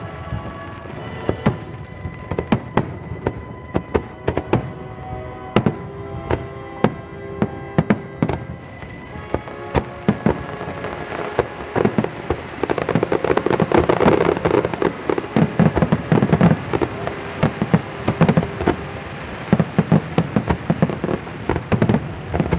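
Fireworks display: a quick run of sharp bangs, thickening about halfway into dense, continuous crackling and popping. Music with sustained notes plays under the bangs, plainest in the first half.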